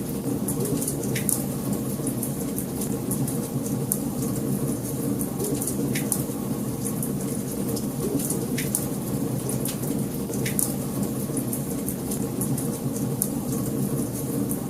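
Wood fire burning in a fireplace: a steady low rumble of flames with sharp crackles and pops scattered through it, a few of them louder snaps.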